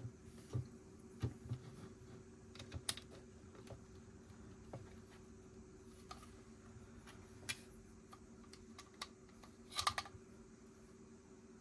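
Plastic Lego bricks being handled and pressed together: scattered sharp clicks and taps, with a quick cluster of clicks near the end, over a faint steady hum.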